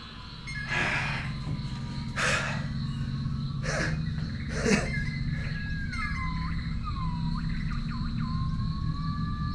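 Film sound design: sliding, whistle-like tones that swoop up and down over a steady low drone and a thin high tone, with four short swishes in the first five seconds.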